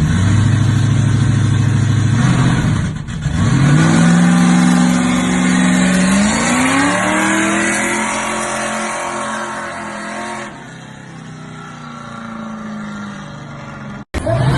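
Loud high-powered car engine accelerating hard: a steady high-rev note for about two seconds, a brief drop around three seconds in, then its pitch climbs again and the sound fades as the car pulls away. It cuts off abruptly near the end.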